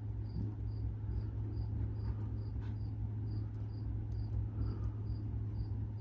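A cricket chirping steadily, about two short chirps a second, over a steady low hum.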